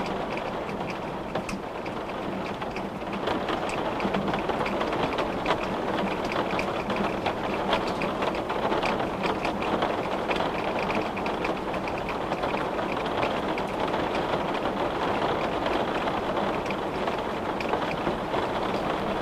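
Steady rain, with many individual drops ticking sharply against window glass over an even hiss.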